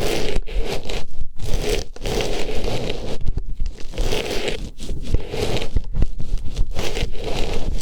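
Artificial rose rustling and scraping close against a microphone's ear, in strokes broken by short pauses.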